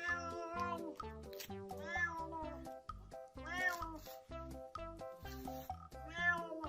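Domestic cat meowing repeatedly, long rising-and-falling meows a second or two apart, over background music with a steady plucked beat.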